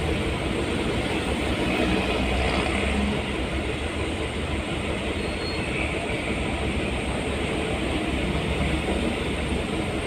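Steady travel noise of a moving vehicle: a continuous low rumble with road and wind hiss, unchanging throughout.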